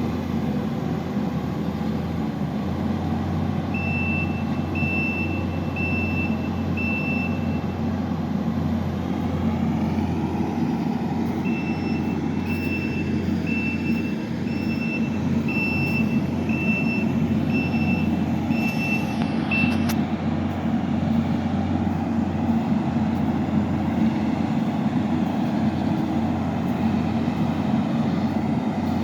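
Kubota SVL65 compact track loader's engine running steadily, its reversing alarm beeping about once a second. There are four beeps a few seconds in and a longer run of about nine in the middle.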